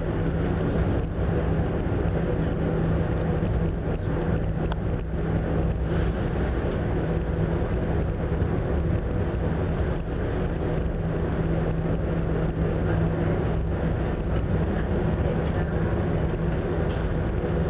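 Steady running noise of the large passenger ferry Ogasawara Maru underway: a constant low hum over an even rushing noise, unchanging throughout.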